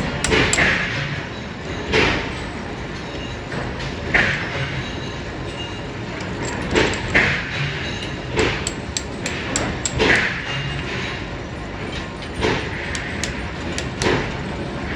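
Metalworking machinery running steadily in a workshop making steel sprockets, with irregular sharp metallic clanks and thuds every second or two, each ringing briefly.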